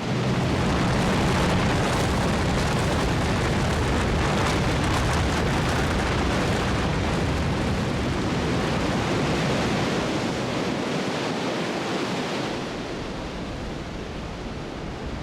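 Glacier ice calving into the sea: a long rumbling roar of collapsing ice and churning water that starts suddenly, with some crackling early on, and dies down after about twelve seconds.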